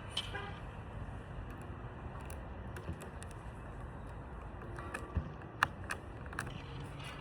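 Steady low outdoor rumble with a few faint, sharp clicks, the loudest about five and a half seconds in.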